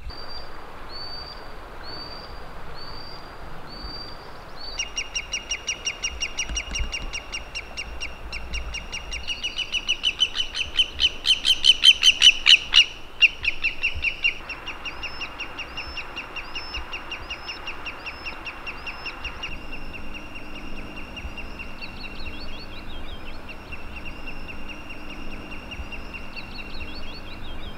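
Birds calling: short repeated chirps, then a fast run of sharp calls that grows louder and stops abruptly about 13 seconds in, followed by more steady, repeated chirping.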